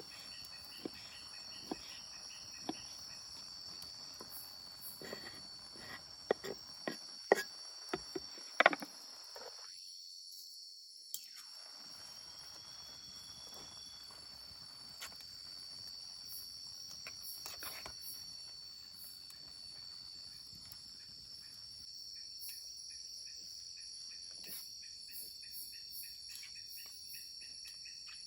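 Forest insects keeping up a steady high-pitched drone, with a pulsing chirp near the start and again in the last several seconds. A handful of sharp clicks and knocks come about six to nine seconds in.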